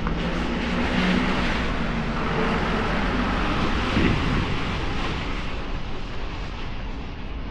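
Traffic on a rain-wet city street: steady tyre hiss and engine noise, swelling as vehicles pass about a second in and again about four seconds in.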